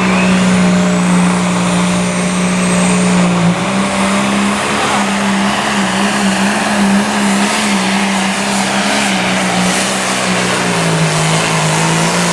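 Turbocharged diesel engine of a John Deere 5010 pulling tractor running flat out under load down the track. Its pitch bobs up and down as the load changes, and a high whistle rises over the first few seconds.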